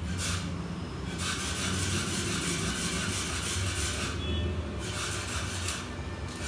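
Long rubbing and scraping strokes on laptop parts during a keyboard replacement, several seconds each with brief pauses, over a steady low hum.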